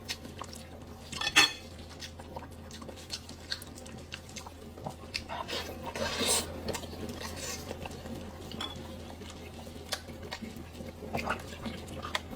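Cutlery and dishes clinking and knocking in scattered light taps, with one sharper knock about a second and a half in and a longer scraping rustle around the middle, over a steady low hum.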